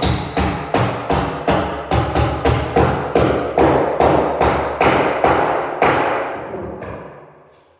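Hammer blows driving a long metal anchor bolt through a wooden floorboard, a little under three a second, with a ringing that rises in pitch over the blows. The blows stop about six seconds in and the ring fades.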